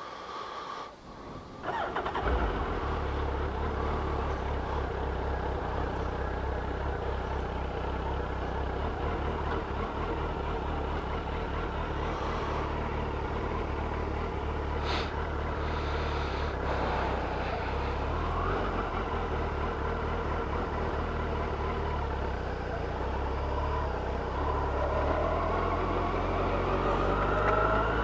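Suzuki Hayabusa motorcycle engine starting about two seconds in, then running steadily.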